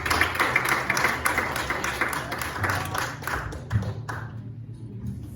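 Congregation clapping, dying away about four seconds in.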